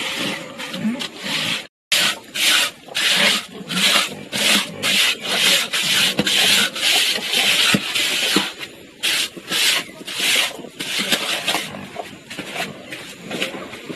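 Abrasive rubbing on wood in quick back-and-forth strokes, about three a second, with a short break about two seconds in.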